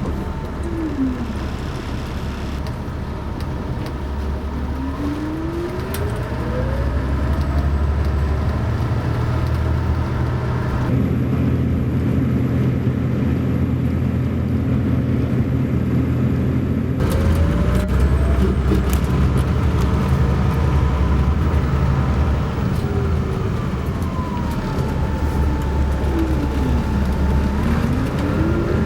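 Bus engine running with a steady low drone, its pitch rising and falling as it speeds up and changes gear, with a couple of sudden shifts in the drone.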